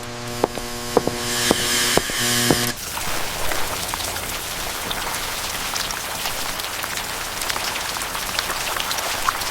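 Steady rain falling, a dense hiss flecked with small drop ticks. For the first three seconds a steady pitched hum with a tick about twice a second sits over it, and then it stops.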